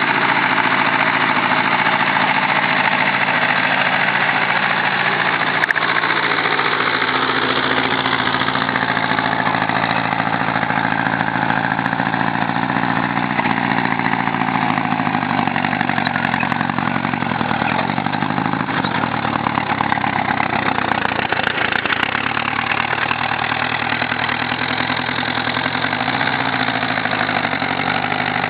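Dacia car engine of a home-built tractor running steadily, with one brief click about six seconds in.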